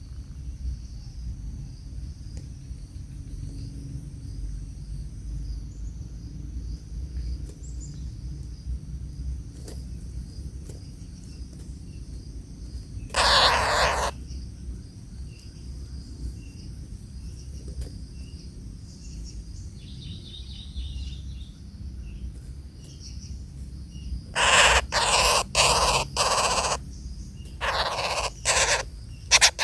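Harsh, raspy bird calls: one about 13 seconds in, then a run of five or six near the end, over a steady high-pitched insect drone and a low rumble.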